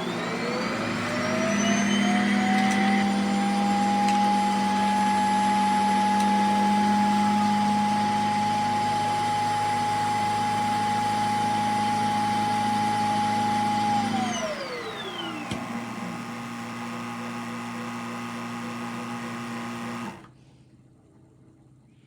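Shark PowerDetect vacuum motor spinning up with a rising whine, then running steadily. About 14 s in it winds down with a falling whine, while a lower hum carries on until it cuts off suddenly about 20 s in.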